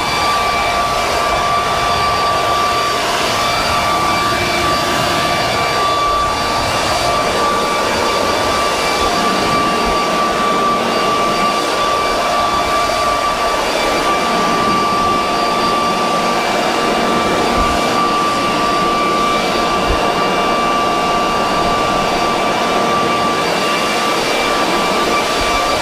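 Corded electric leaf blower running steadily, a constant high whine over rushing air, as it blows sanding dust and debris off a deck.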